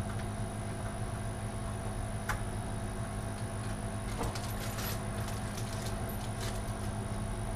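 A steady hum with a few faint clicks and taps of small computer parts being handled, about two, four and five seconds in.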